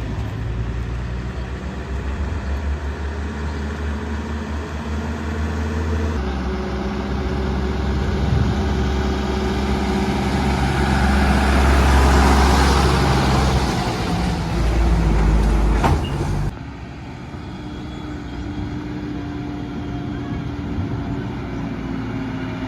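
Heavy diesel engines of construction vehicles running, the engine note swelling under load toward the middle and then easing off. The sound changes abruptly twice, and it is lower and steadier near the end.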